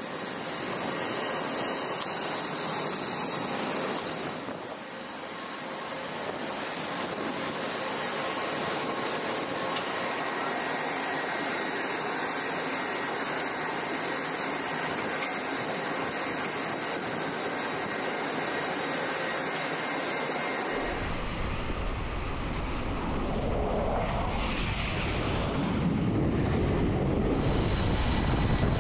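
Aircraft engines running: a steady roar with a thin high whine. About 21 seconds in it cuts to a louder, deeper engine rumble, with a brief falling whine a few seconds later.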